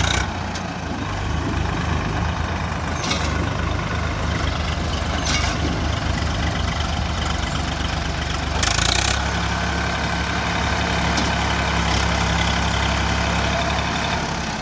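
Swaraj diesel tractor engines running with a fast low pulsing beat. About nine seconds in there is a short hiss, and after it the engine note turns steadier.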